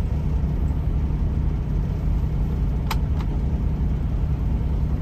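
Semi-truck diesel engine running at low speed, a steady low rumble heard from inside the cab. Two short clicks come about three seconds in.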